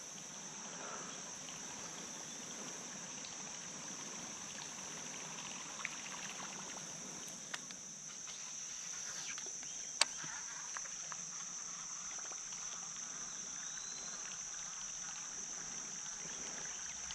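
A steady, high, even insect chorus buzzing from the creek banks, with faint water sounds beneath. A couple of faint ticks, and one sharp click about ten seconds in.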